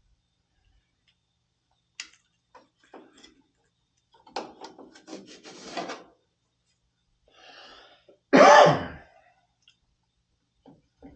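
Metal parts and tools clicking and clattering as a furnace part is handled and fitted, then a person clears their throat loudly, once, about eight and a half seconds in.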